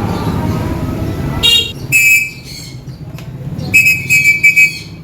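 Pet lovebirds giving shrill, whistle-like calls: two short calls in the first half, then a quick run of four or five short chirps near the end.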